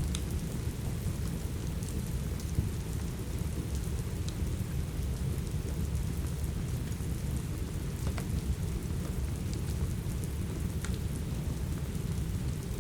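Steady rain with a deep, even rumble underneath, and the sharp, scattered pops of a crackling wood fire dotted irregularly through it.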